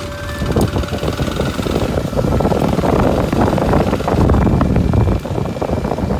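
Kawasaki Super Sherpa's single-cylinder four-stroke engine running while the motorcycle is ridden, building up in loudness over the first couple of seconds and then holding steady, with a rough, rattling rumble.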